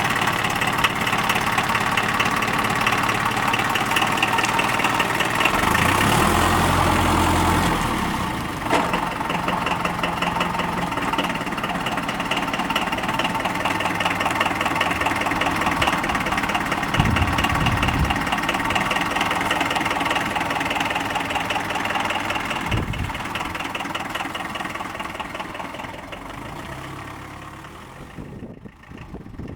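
Mercedes OM 636 four-cylinder diesel of an Esslingen DZ 10 tow tractor running with a steady diesel clatter, with a few low thumps along the way; it grows fainter near the end.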